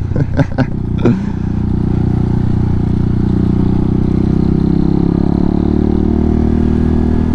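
Hawk 250 dual-sport's single-cylinder engine running at low revs, its note rising and easing gently.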